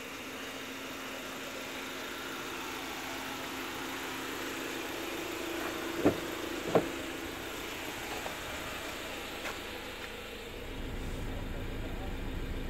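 Ford Transit Custom's diesel engine idling steadily, with two sharp clicks about six and seven seconds in and a low rumble picking up near the end.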